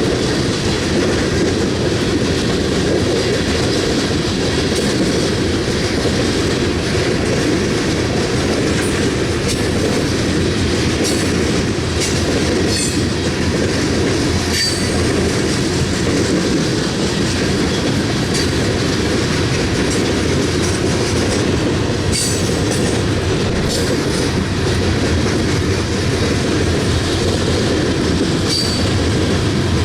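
Loaded coal train's cars rolling past, a steady heavy rumble with the clickety-clack of wheels over rail joints and brief high wheel squeals now and then.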